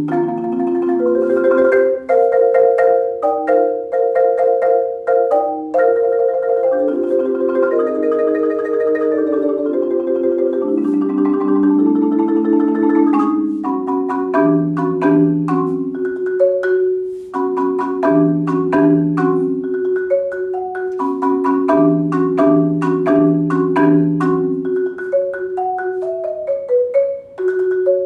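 Solo marimba played with four mallets. Rolled chords shift through the first half. From about halfway, a steady rolled middle note sounds under a melody above, with low bass notes struck in short groups of two to four.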